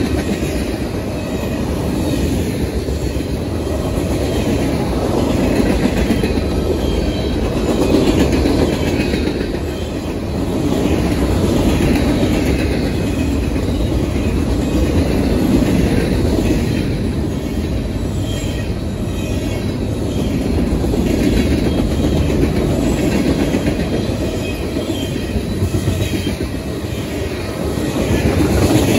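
Freight cars of a manifest train rolling past at close range: a steady heavy rumble that swells and eases as the cars go by, with wheels clicking over the rail joints and a recurring high wheel squeal.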